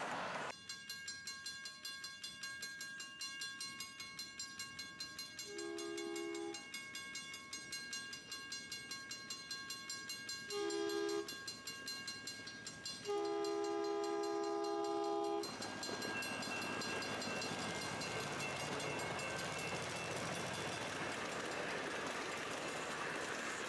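Passenger train running with a rhythmic clickety-clack of the wheels. Its two-tone horn sounds three times, two short blasts about 6 and 11 seconds in, then a longer one of about two seconds. After the horn comes a steady rushing noise of the ride.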